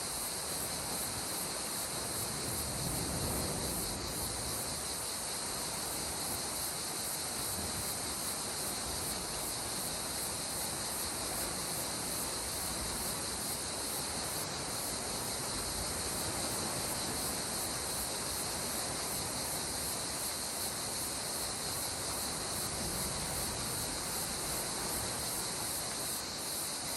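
Steady, high-pitched chorus of insects, likely crickets, over a soft, even wash of calm sea water that swells gently now and then.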